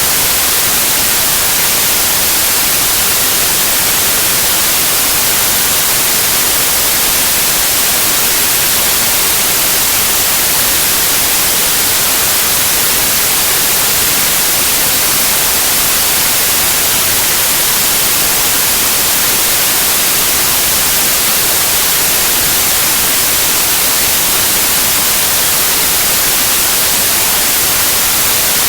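Steady synthetic white noise: an even, unchanging hiss, brightest in the treble, with no events or variation.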